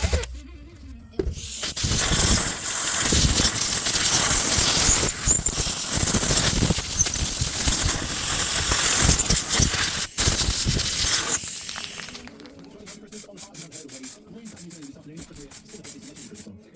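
Abrasive rubbing, steady and loud for about ten seconds, then quieter rapid back-and-forth strokes near the end, as in sanding or scrubbing parts of a plane being restored.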